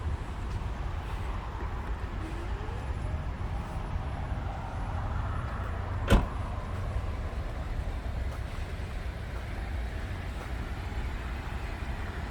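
A 2018 Volvo XC90 T6 running, with a steady low rumble. One sharp knock about six seconds in.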